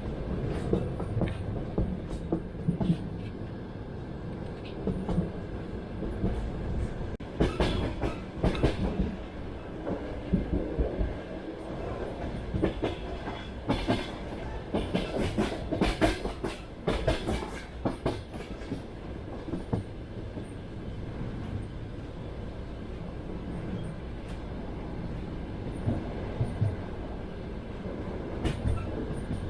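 Passenger train running along the track: a steady carriage rumble with several clusters of clacking as the wheels pass over rail joints.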